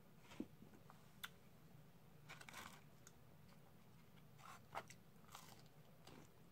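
Faint close-up chewing and mouth sounds of someone eating cheesy fries and chicken nuggets, with a few short crisp clicks and crackles; the sharpest come about half a second in, just over a second in, and near five seconds.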